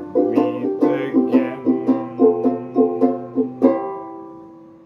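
Instrumental music on a strummed plucked string instrument, chords in a steady rhythm. The final chord comes about three and a half seconds in and rings out, fading away.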